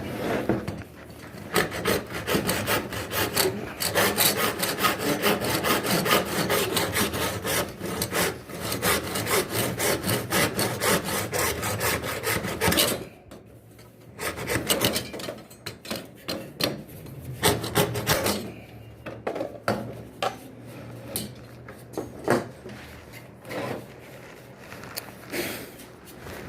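Rapid, continuous hand scraping strokes for about thirteen seconds, then scattered, shorter runs of strokes with pauses between them. This is hand work on the shower door's parts.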